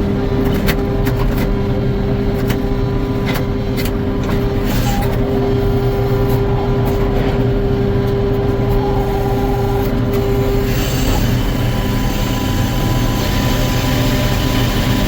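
Sawmill running steadily under load as it saws an eastern white pine log, with a constant hum, scattered clicks in the first half, and a change to a hissier sound about eleven seconds in.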